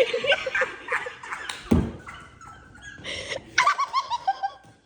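People laughing in quick bursts and making high yelping, animal-like squeals with their voices, with a single low thump a couple of seconds in.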